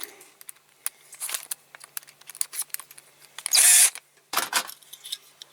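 Small tools being handled while a drill bit is swapped for a bigger one: scattered light clicks and taps, with a short loud rasp about three and a half seconds in and a briefer one just after.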